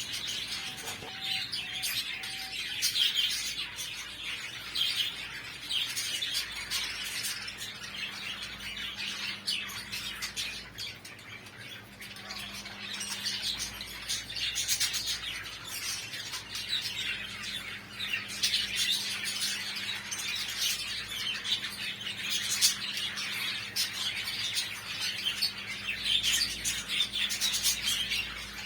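A flock of budgerigars chattering, many overlapping short chirps and warbles.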